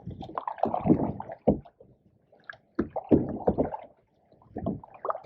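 Canoe paddle strokes in pond water, about three, each a gurgling swirl and splash with small knocks, with near-quiet gaps between strokes.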